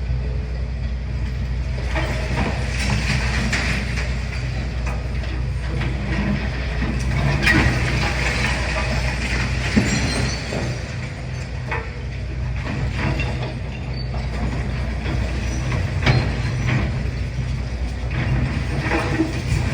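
Excavator's diesel engine running steadily, with irregular knocks and crunches of masonry and rubble being broken and shifted in demolition.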